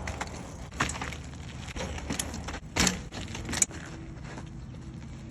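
Full-suspension mountain bike, a 2012 Trek Remedy with a freshly welded chainstay, being given a rough first test: several sharp clunks and knocks in the first three and a half seconds over a steady low rumble.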